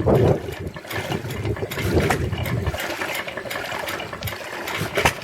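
Water gushing from a belt-driven Peters pump as it strokes, over the steady running of a 2.5 hp Fairbanks Morse engine, with scattered mechanical clicks.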